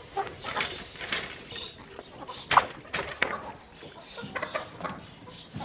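Aseel chickens clucking, with short calls and several sharp noises scattered through, the sharpest about two and a half seconds in.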